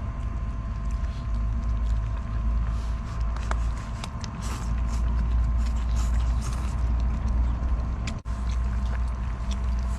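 Strong wind rumbling on the microphone, with scattered small crackles and clicks from a wood fire. The sound drops out for a moment about eight seconds in.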